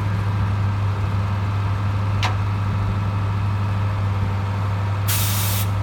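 Engine of a line puller truck running steadily with a low hum, a brief sharp squeak about two seconds in and a short burst of hiss about five seconds in.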